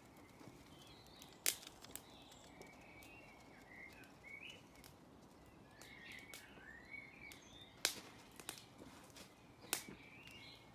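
Garden birds singing faintly, short chirps and warbling phrases coming and going, over a low hiss of outdoor background noise. Three sharp clicks stand out, about a second and a half in, near eight seconds and near ten seconds.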